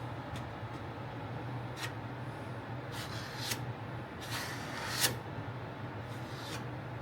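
Plastic spreader scraping body filler in a few short strokes: about four separate swipes, the longest and loudest about five seconds in, over a steady low hum.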